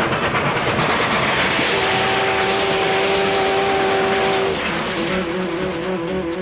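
Cartoon sound effect of a fast-moving vehicle: a loud, steady rushing rattle, with a single steady horn-like blast held for about two and a half seconds in the middle.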